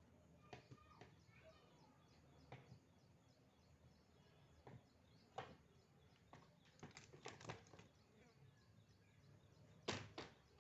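Near silence broken by scattered faint clicks and knocks, with a small cluster about two-thirds of the way in and a louder pair near the end.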